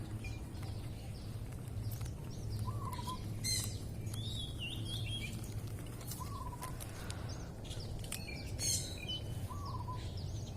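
Birds calling: one gives a short rising-and-falling call four times, about every three seconds, while others chirp and trill higher. A steady low rumble runs underneath.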